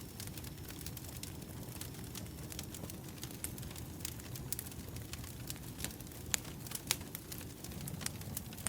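Burning firewood crackling: scattered small pops and snaps over a steady low rumble, with two louder pops a little past the middle.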